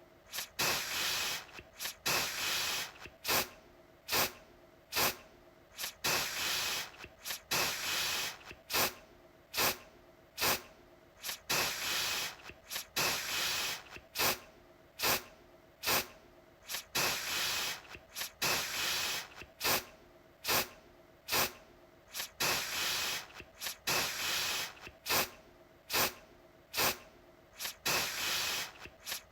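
Aerosol deodorant can spraying over and over: quick short puffs mixed with longer hisses lasting up to about a second, several every couple of seconds.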